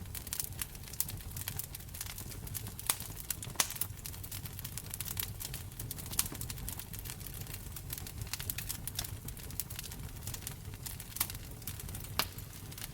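Wood fire crackling in a fireplace: a constant stream of small pops and ticks with a few louder snaps, over a low steady rumble of the flames.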